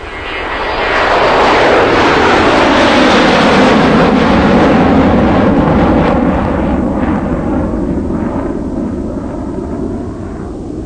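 A loud rushing roar that swells up over the first two seconds, its pitch sweeping downward, then slowly fades.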